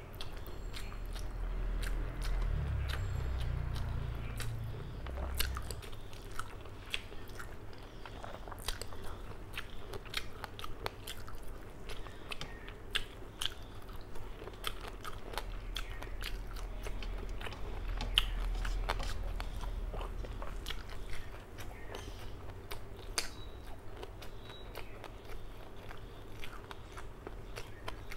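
Close-miked chewing of a mouthful of rice and fish curry, with many sharp little clicks and crunches. A low rumble swells twice, about two to five seconds in and again in the middle of the stretch.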